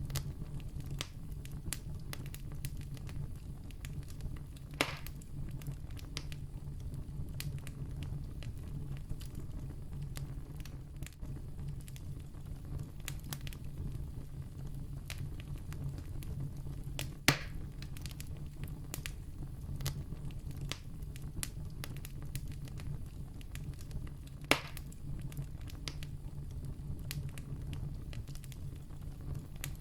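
Campfire burning with a steady low rush of flames and frequent small crackles, broken by three louder sharp pops spread through.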